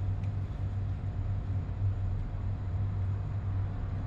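Steady low hum of running air-conditioning plant machinery, with a strong droning tone and a faint wash of noise above it.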